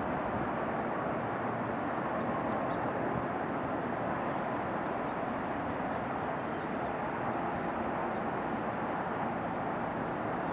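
Cessna Citation CJ1 twin-turbofan business jet landing, its engines making a steady, even rush of jet noise.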